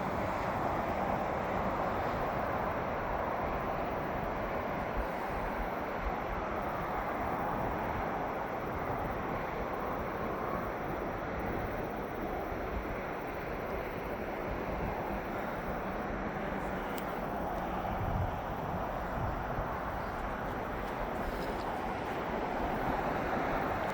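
Steady rushing outdoor ambience: an even noise with no distinct events, and a faint low thump about 18 seconds in.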